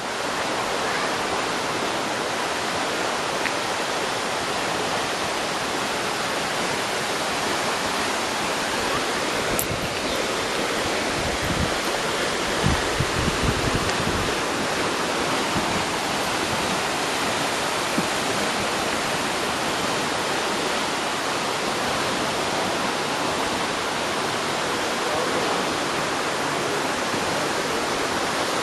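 Waterfall's steady, even rush of falling water, with a few brief low bumps about halfway through.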